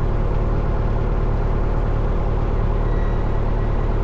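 Cessna 172 Skyhawk's four-cylinder piston engine idling steadily on the ground, heard from inside the cabin as a constant low drone.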